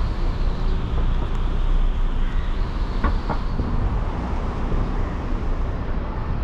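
Steady street traffic noise with a low rumble, and two short clicks about three seconds in.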